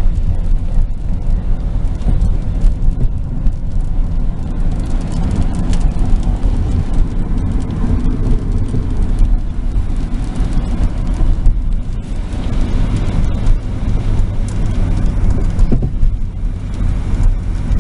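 Steady road and engine noise heard from inside a moving car's cabin, a constant low rumble.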